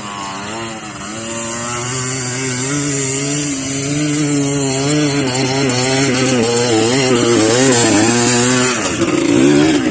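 Small trail motorcycle engine revved hard and held at high revs. It gets louder over the first couple of seconds, wavers in pitch, then drops back sharply near the end. It is working to push the bike up a slippery muddy trail where the wheel keeps spinning.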